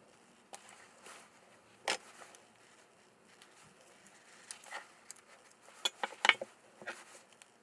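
Scattered light clicks and taps of small parts and tools being handled, with a quick cluster of louder knocks about six seconds in.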